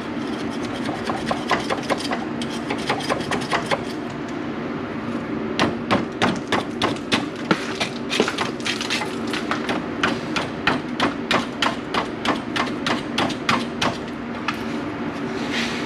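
Hand scraper worked in quick, repeated strokes against caked grease and oil grime on the chassis, each stroke a sharp scrape, about two to three a second, with a short pause about four seconds in. A steady low hum runs underneath.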